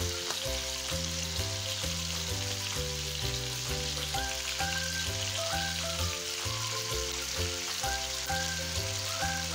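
Chicken drumsticks sizzling steadily in hot oil in a wok, over background music with a stepping bass line and a light melody.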